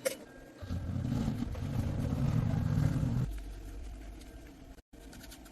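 An engine running, loud and low for about three seconds, then dropping to a quieter low rumble; a sharp click at the very start.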